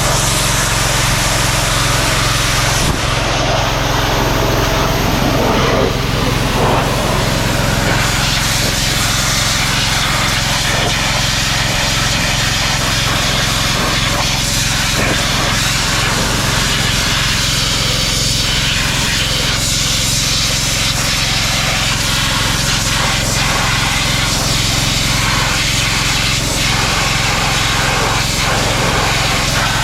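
High-pressure washer running steadily, its small engine humming under the continuous hiss of the water jet.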